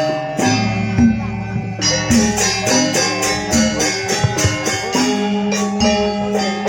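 Balinese gamelan music: struck metal percussion ringing over held pitched tones at a steady beat.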